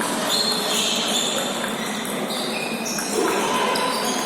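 Table tennis hall during play: several short, high squeaks, like shoes on the floor, and faint clicks of ping-pong balls over a steady murmur of voices.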